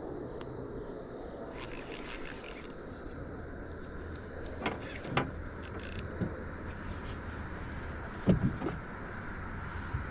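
Steady low rushing of wind and moving water, with scattered sharp clicks and knocks and one heavier thump a little past eight seconds in.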